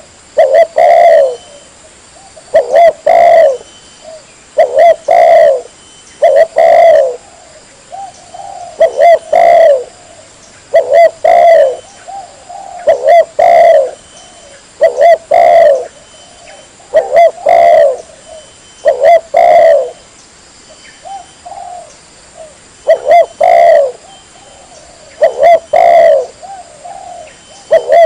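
Spotted dove (tekukur) cooing loudly over and over in short phrases that come about every two seconds, with a brief lull a little past the middle.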